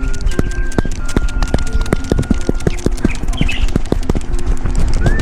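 Rapid irregular knocks and low rumble from a camera carried on a trotting dog, each footfall jolting the camera, over background music of long held notes.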